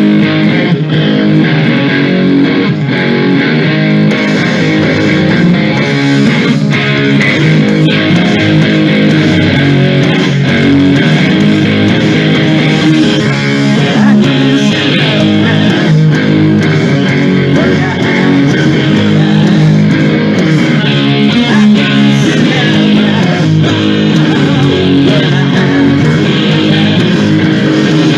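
Hard rock band playing live, with electric guitar and bass guitar to the fore.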